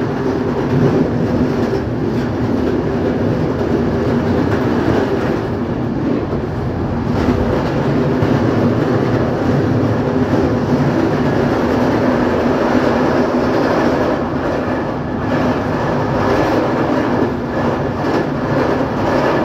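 Train running along the track at speed, heard from on board: the steady rumble and rattle of wheels on the rails.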